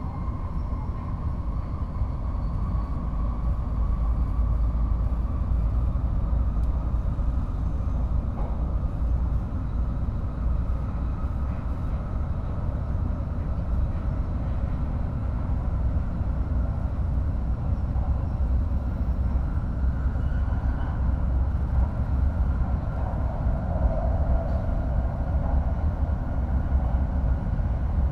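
Shinkansen bullet train running, heard inside the passenger car: a steady low rumble with a faint high hum. The rumble grows a little louder over the first few seconds, then holds.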